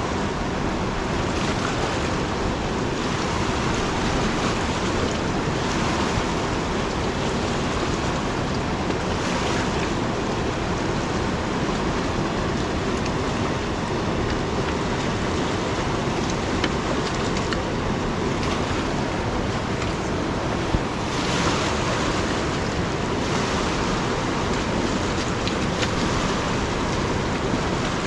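Flooded river rushing steadily, with wind gusting now and then.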